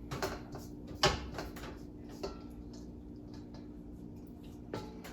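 Kitchen clatter of cookware: a few sharp knocks and clinks, the loudest about a second in, as fried mushrooms are moved from the wok to a bowl, over a steady low hum.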